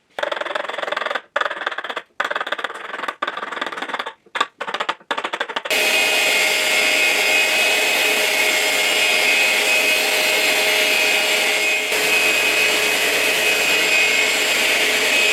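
Choppy bursts of abrasive scraping with brief breaks. Then, from about six seconds in, an electric sander runs steadily on the hardwood bench top, taking off dried epoxy squeeze-out.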